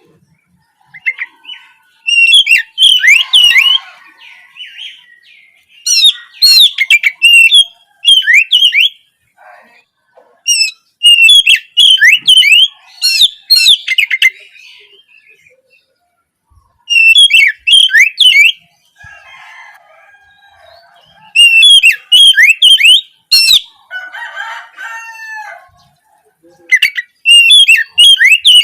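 Oriental magpie-robin (kacer) singing in loud bursts of rapid, sharply sweeping notes, each phrase a second or two long with pauses between, and a few quieter, lower calls between phrases.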